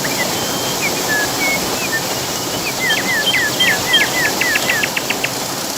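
Songbirds singing over the steady rush of running water. Scattered whistled notes come first, then about halfway through a quick run of repeated down-slurred notes.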